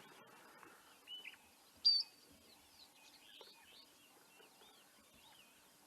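Wild birds calling over faint outdoor background noise: a short call about a second in, a sharp high call just before two seconds, then a run of soft quick chirps.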